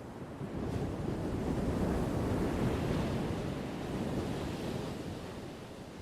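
Ocean waves: one swell of surf rising about half a second in, at its loudest a couple of seconds later, then washing back down toward the end.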